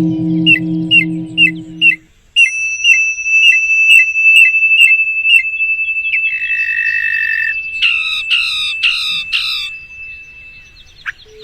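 Songbird singing: a run of short, repeated whistled notes at about two a second, then a few quick chirping trills, over a long steady high whistle-like tone. A pulsing low hum fades out about two seconds in.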